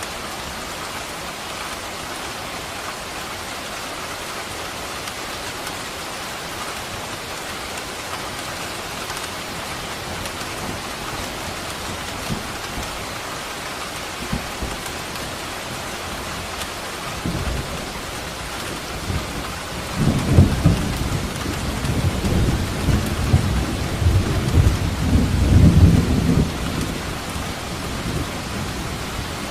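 Steady heavy rain falling, with a roll of thunder rumbling in about two-thirds of the way through, loudest for several seconds before fading back under the rain.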